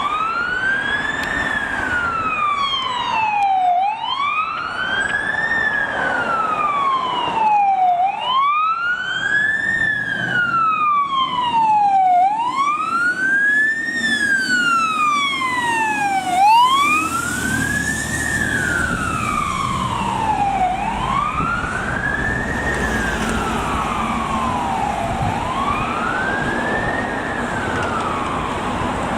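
Fire truck siren on its wail, rising and falling slowly about every four seconds, with a second siren sweeping faster over it through the first half. Engine and road noise swell about two-thirds of the way through as the vehicle passes.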